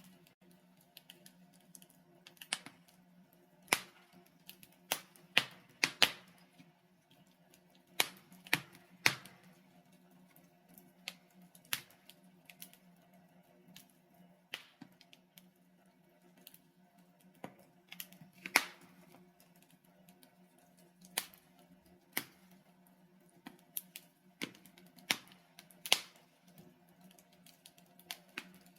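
Wood fire burning in a fireplace: logs crackling and popping in sharp, irregular snaps, some much louder than others, over a faint steady low hum.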